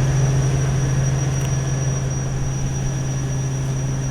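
Diesel engine of a 2005 Crane Carrier rear-loader garbage truck idling steadily: a constant low hum, with a thin steady high tone above it.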